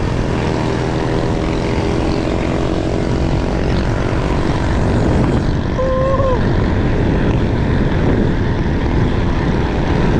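Wind rushing over the microphone at riding speed, mixed with a steady motor drone that is strongest in the first half. A short pitched sound cuts in briefly about six seconds in.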